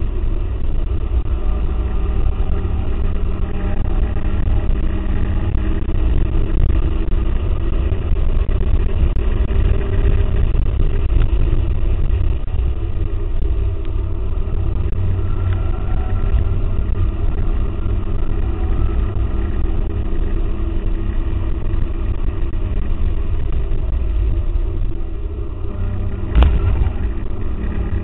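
A 2004 Mustang GT's 4.6-litre V8 driven hard on track, heard from inside the cabin as a low, muffled, distorted rumble whose pitch rises and falls with the revs, over wind and road noise. A single sharp knock near the end.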